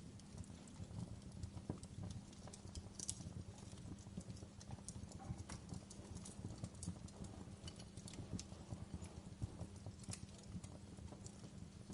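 Wood fire crackling in a fireplace: irregular sharp pops and crackles over a low, steady rumble.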